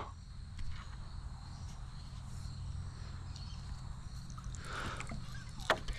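Faint steady drone of insects, with a constant low rumble beneath it and a few light clicks near the end.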